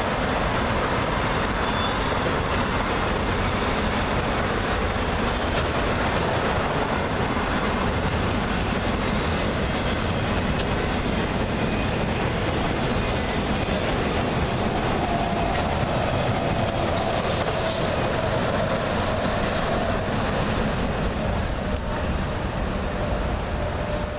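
Freight train cars rolling past on the rails, a steady rumble and rattle of wheels on track, with faint wheel squeal in the second half.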